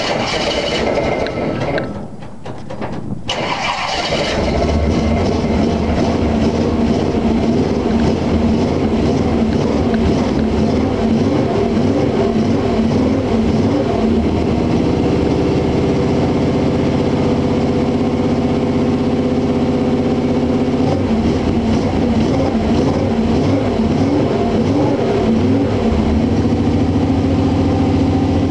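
1971 Chevy pickup's 355 small-block V8 starting cold after sitting about a month: it turns over and catches in the first few seconds, then runs, its speed wavering up and down before settling into a steady idle.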